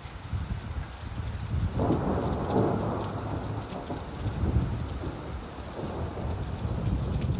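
Steady rainfall with a low rumble of thunder that swells about two seconds in and slowly fades.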